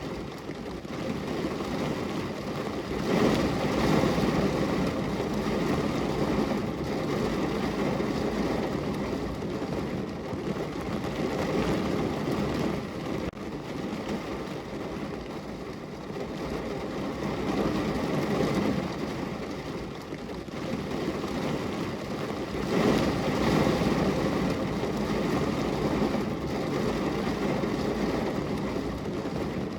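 Heavy rain drumming on the roof and body of a car, heard from inside the cabin: a dense, even patter that swells louder twice.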